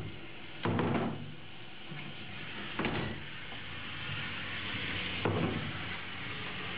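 Steady hiss of heavy thunderstorm rain, broken three times by short thumps: about a second in, near three seconds, and about five and a half seconds in.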